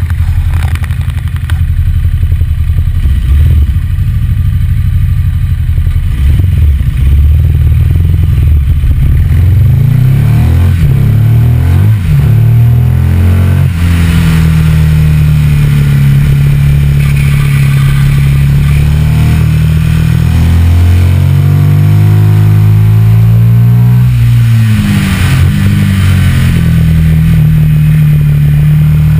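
Ducati Multistrada 1200's L-twin engine under way, its pitch climbing as it accelerates and dropping back at gear changes, about halfway through and again near the end, over a rush of wind and road noise.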